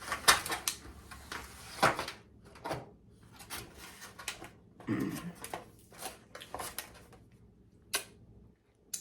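Close-miked eating and handling sounds: irregular clicks, knocks and mouth sounds of food being eaten and its container handled, with one lower, bending sound about five seconds in.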